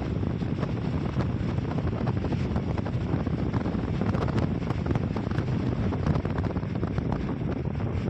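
Wind buffeting the microphone: a steady, dense rumble with constant crackling.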